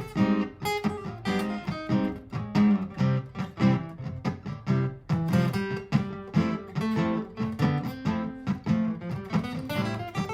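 Martin GPCPA4 steel-string acoustic-electric guitar played through a looper: a looped strummed part with plucked improvised notes over it, in a steady, busy rhythm.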